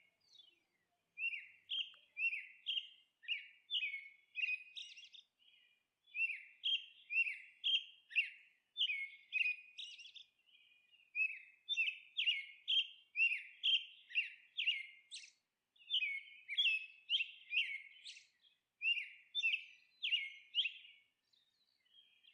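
A bird chirping: a quick series of short, high chirps at about two a second, in runs of a few seconds with brief pauses between them.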